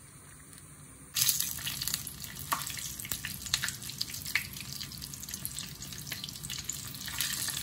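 Flour-coated chicken frying in hot oil: a steady sizzle with frequent crackles and pops, starting about a second in.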